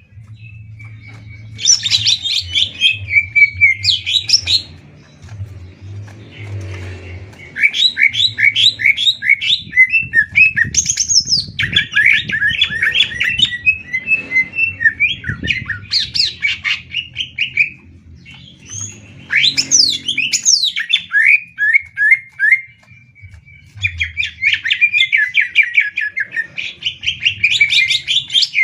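Green leafbirds (cucak ijo) singing against each other in a song duel: loud phrases of fast, repeated sharp notes and rattling trills, each lasting a few seconds with short pauses between.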